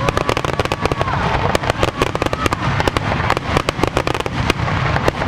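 Aerial fireworks crackling: a dense run of rapid sharp pops, thickest in the middle, over a steady low rumble.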